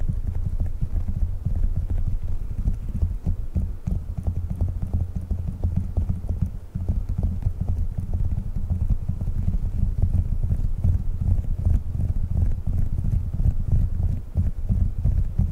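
Rapid fingertip tapping on Globbles, squishy gel fidget balls: a dense run of soft, dull, low thuds that pauses briefly about seven seconds in.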